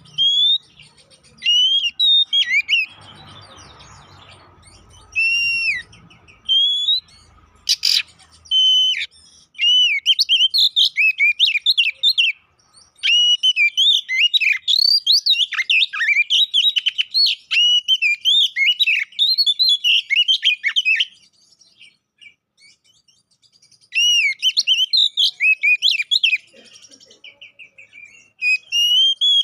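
Oriental magpie-robin (kacer) singing loud, clear whistled phrases with gaps between them, then from about a third of the way in a fast, unbroken run of chattering song. There is a pause of a few seconds, then another burst. A single sharp click comes just before the fast run.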